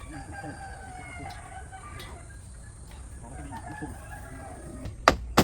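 Chickens clucking, with a rooster crowing. About five seconds in come two sharp, loud knocks.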